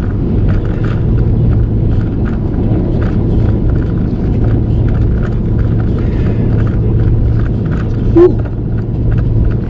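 Steady low rumble of a vehicle travelling on the highway, with road and wind noise. A brief sharp chirp, rising in pitch, about eight seconds in.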